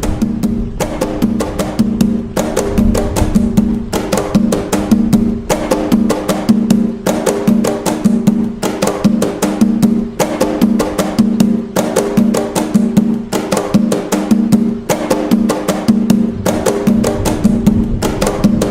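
Atabaque hand drums playing the toque nagô rhythm of Umbanda: fast, continuous hand strokes in a steady repeating pattern.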